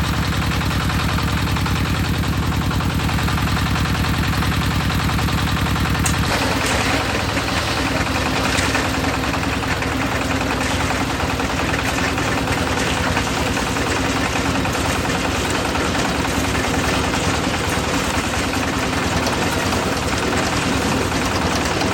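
Concrete mixer's engine running steadily with a low, rapid chugging. About six seconds in the sound changes: the chugging gives way to a noisier churning over a steady hum.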